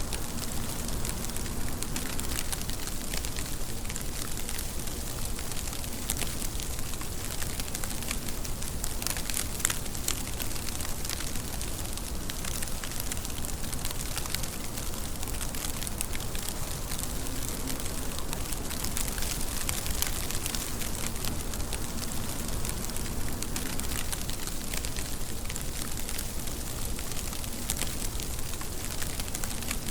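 Steady rain: a dense, even hiss with many small drop ticks.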